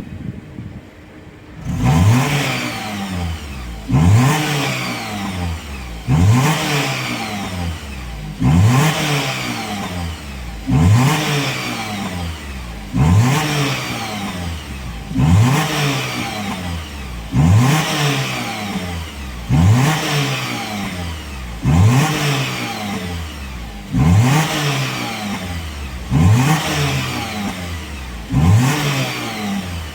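Car engine free-revved over and over, just after a hydrogen decarbonising clean of the engine. The blips start about two seconds in and come about every two seconds; each rev climbs quickly and falls back toward idle.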